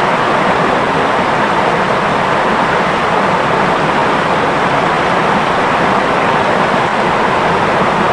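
Clear, shallow river flowing over stones: a steady, even rush of water.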